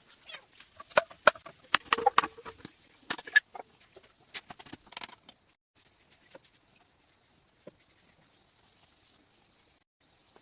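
A quick, irregular string of sharp clicks and knocks, loudest in the first few seconds, that thins out and stops about five seconds in.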